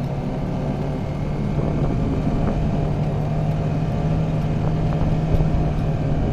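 Car driving at a steady speed: an even engine hum over low road rumble.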